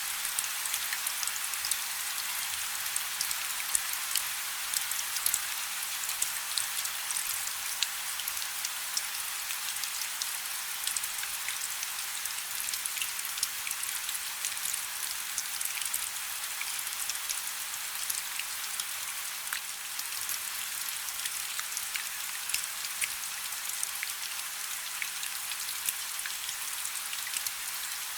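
Light rain falling steadily, a soft hiss with many small, distinct drop ticks.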